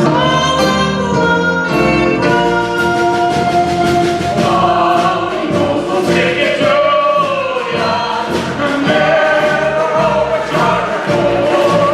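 A group of voices singing in chorus over instrumental accompaniment, with long held notes that waver.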